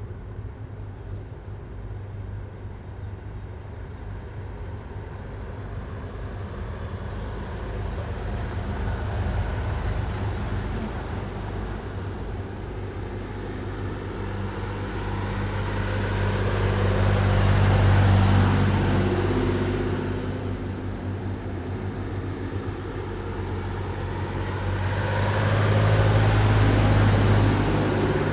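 Heavy military vehicles driving past one after another, the engine rumble swelling and fading as each one passes: a smaller pass about ten seconds in, then two louder ones around eighteen and twenty-seven seconds in.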